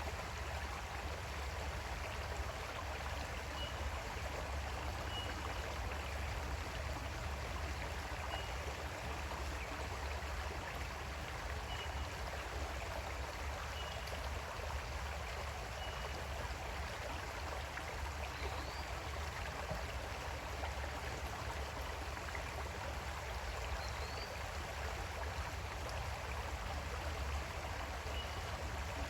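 Creek water flowing steadily, with faint short high chirps every couple of seconds.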